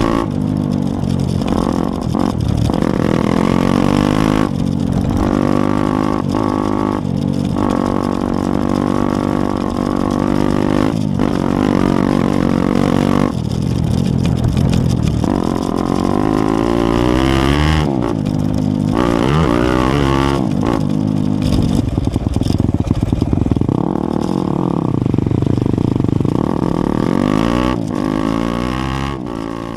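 Four-stroke single-cylinder dirt bike engine revving up and down repeatedly as it is ridden, the pitch rising and falling with each change of throttle and gear.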